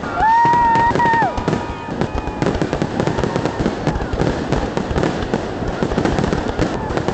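Fireworks going off, with dense crackling and popping throughout and crowd voices underneath. Near the start a high held tone, rising at its onset and falling at its end, lasts about a second.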